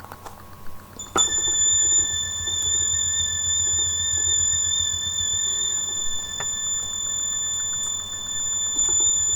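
Roland M-DC1 sound module playing a held, high synth tone that starts about a second in and sustains unchanged, over a rapid low pulsing.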